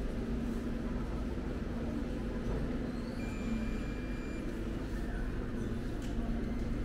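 Steady low rumble with a constant droning hum from a train, with a few faint high whines coming and going.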